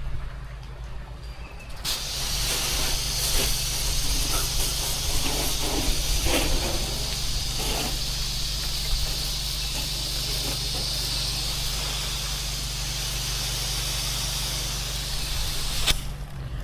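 Pressure-washer spray hissing loudly and evenly from a wand, starting about two seconds in and cutting off near the end, over the steady low drone of the washer's engine.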